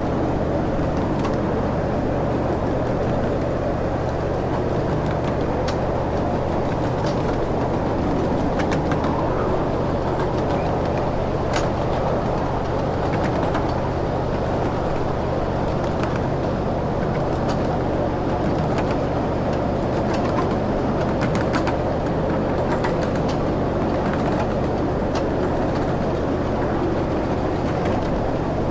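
A ride-on train running steadily, heard aboard: a low, even engine hum under a rumbling clatter, with scattered short clicks.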